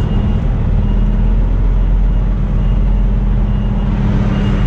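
Semi truck's diesel engine running at low speed while backing into a parking space, with its reversing alarm beeping about once a second over the engine drone.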